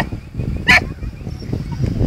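A dog barks twice, once at the very start and once under a second in, short sharp barks over a steady low wind rumble on the microphone.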